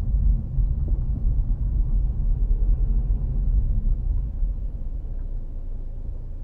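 Low, steady rumble of a car's road and engine noise heard from inside the cabin while driving, growing quieter over the last couple of seconds.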